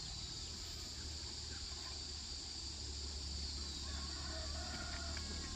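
Rural outdoor ambience: a steady high-pitched insect drone, with a few faint bird chirps and a low rumble underneath.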